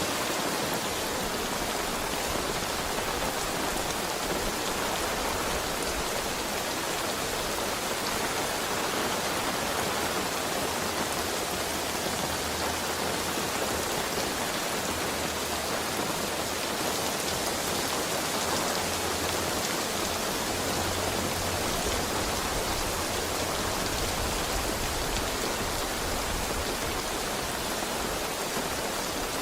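Heavy rain falling steadily, an even unbroken hiss of drops with no thunder.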